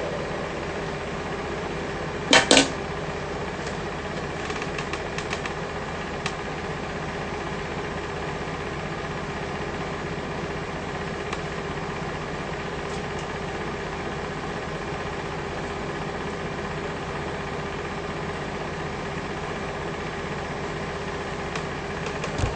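A steady mechanical hum with a sharp double knock about two and a half seconds in and a few faint clicks after it.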